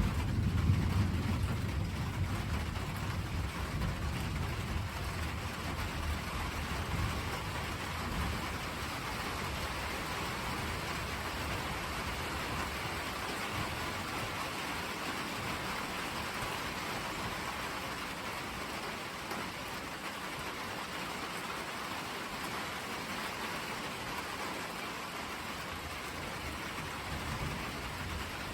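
Steady rain falling, with a deep roll of thunder at the start that dies away over the first eight seconds or so.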